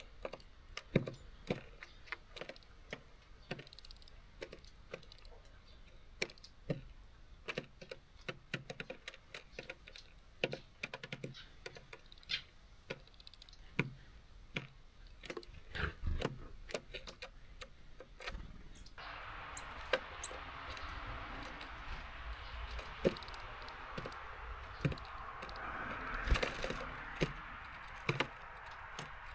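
Small birds pecking and hopping on a seed feeder, making a stream of quick, irregular taps and clicks. About two-thirds of the way through, a steady hiss sets in under the tapping.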